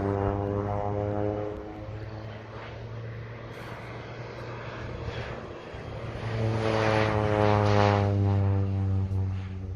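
Crop-dusting airplane flying low past, its engine and propeller drone dropping in pitch as it goes by. It fades a little after a second in, then comes back loud near the end, the pitch falling again as it passes.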